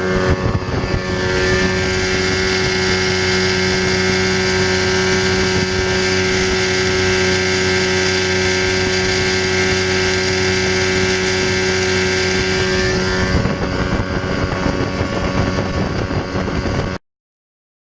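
Boat engine running on a freshly rebuilt carburetor, with wind on the microphone. It picks up about a second in, holds steady, eases back about 13 seconds in, and cuts off suddenly just before the end.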